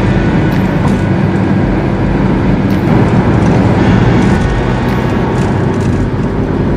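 Volvo V40 T2 running under full throttle, heard from inside the cabin as a steady mix of engine, wind and tyre noise near 190 km/h at high revs in fourth gear. About halfway through, a cut changes it to the engine pulling at low revs in sixth gear at around 95–100 km/h.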